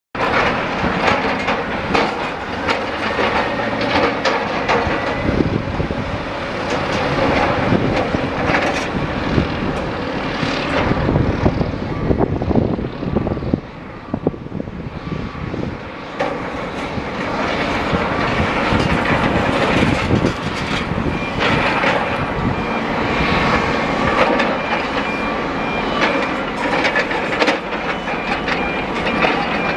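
Heavy diesel machinery at work, with a dense clatter of knocks and scrapes from armour stone being handled. A repeating high beep joins in the last third.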